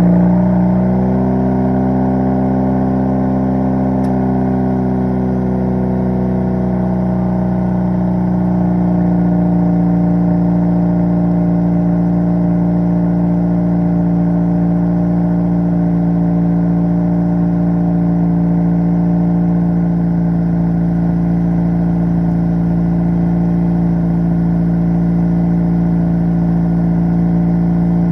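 2017 Honda Civic Si's turbocharged 1.5-litre four-cylinder with its muffler deleted, idling fast just after a cold start. The pitch eases down over the first few seconds, then holds steady.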